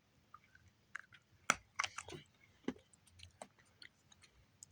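Person chewing a hard dog biscuit, with irregular crisp crunches; the loudest comes about one and a half seconds in.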